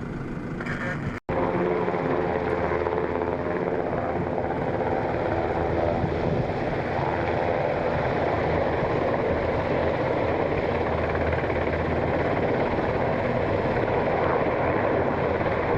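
Black Hawk helicopter running, a steady loud rotor and turbine noise that does not change, after a momentary dropout to silence about a second in.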